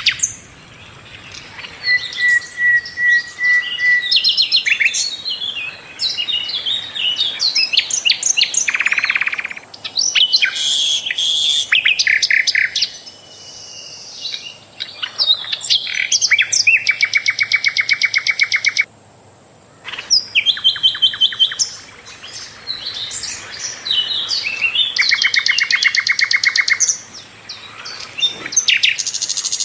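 Sikatan londo flycatcher singing a varied song: quick chirps and twitters, a short run of even whistles, and fast buzzy trills, in phrases broken by brief pauses.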